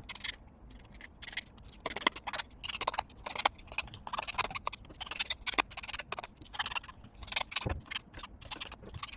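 Irregular run of short scratches and taps from paper and pen being handled on a desk.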